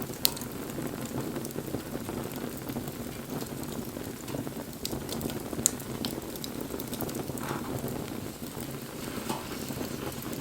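Wood fire burning: a steady rush of flame with scattered crackles and sharp pops of burning wood. The two loudest pops come just after the start and a little past halfway.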